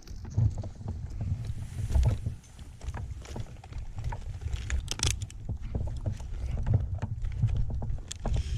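Rumbling wind and handling noise on the microphone, with scattered clicks and knocks from the climber's gear as he moves about in the tree. No chainsaw is running.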